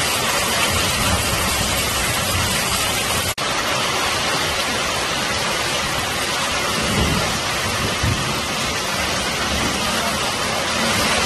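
Heavy rain pouring down, a dense, steady hiss of drops beating on a road and then on the surface of standing water. The sound breaks off for an instant about three seconds in, then carries on.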